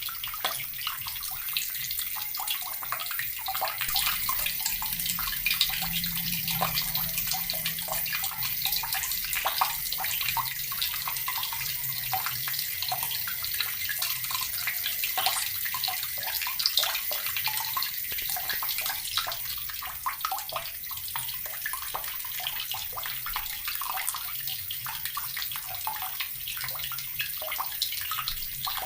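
Tap water running steadily and splashing, a continuous bright hiss with many small splashes.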